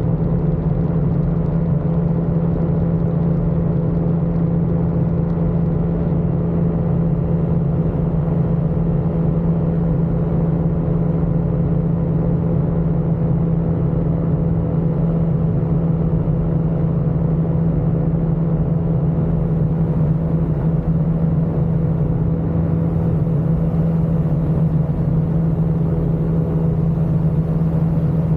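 Ultralight aircraft engine running steadily in flight, a constant loud drone that holds one pitch with no change in power.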